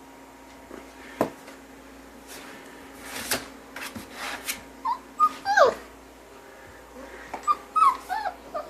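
A puppy whimpering in short, high-pitched whines and squeaks, several falling in pitch, in two clusters about five seconds in and again seven to eight seconds in. A few sharp knocks come before them.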